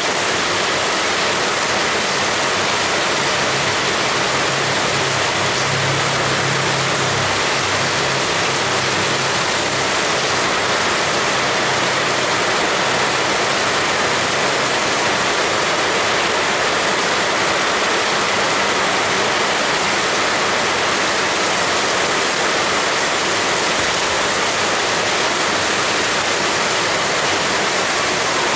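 Heavy rain falling steadily, a dense unbroken hiss. A faint low hum sits under it for several seconds in the first third.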